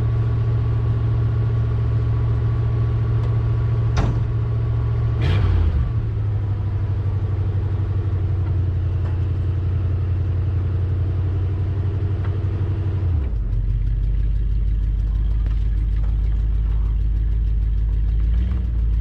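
V8 truck engine running steadily, its speed dropping in two steps, about five seconds in and again about thirteen seconds in, to a lower idle. A couple of sharp clicks come through around four to five seconds in.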